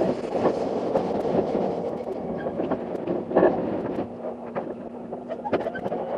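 Running noise of a moving limited express train, heard from inside the carriage: a steady noisy rush with scattered sharp clicks and knocks.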